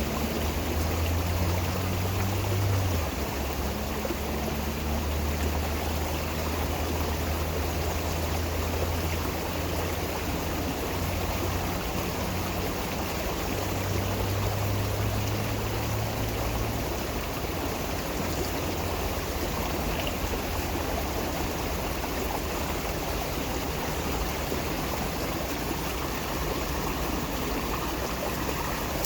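Stream water running steadily, an even rushing sound with no pauses. A low steady hum sits underneath it for roughly the first half.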